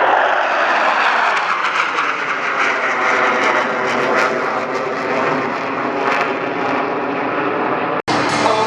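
Jet noise from Blue Angels F/A-18 Super Hornets flying past, a loud roar whose pitch slides downward as they go by. The sound drops out for an instant near the end.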